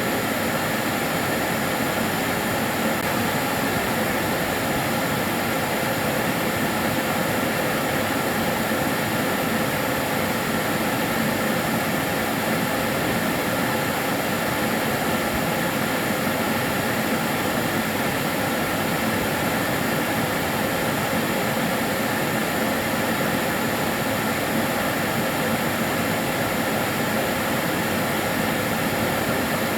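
Kärcher DS 6 Premium water-filter vacuum cleaner running steadily, a constant whooshing hum with a few faint steady tones and no change in speed.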